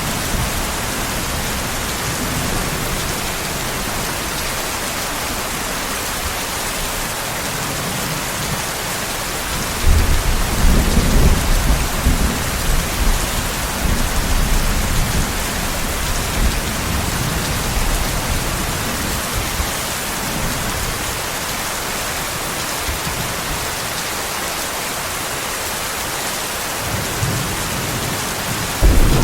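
Heavy rain falling in a steady hiss. About ten seconds in, a rumble of thunder rolls in and fades over several seconds, and another begins near the end.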